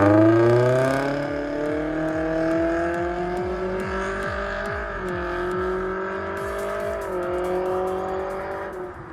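Toyota 2ZR-FE 1.8-litre inline-four running through an MS-R valved cat-back exhaust under acceleration. Its note climbs slowly in pitch, dips briefly twice around the middle and later part, then fades near the end.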